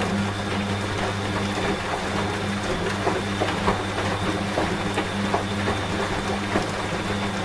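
Washing machine pump humming steadily as water runs through it, with rain falling and scattered drips and ticks over it.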